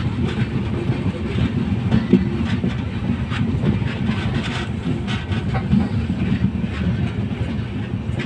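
Passenger train running on the rails: a steady rumble with wheels clicking over rail joints, easing off slightly near the end.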